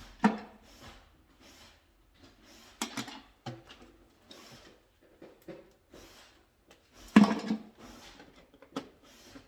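Hand work with tools and parts on an electrical wiring practice board: rustling and scraping broken by several sharp knocks. The loudest knock comes about seven seconds in.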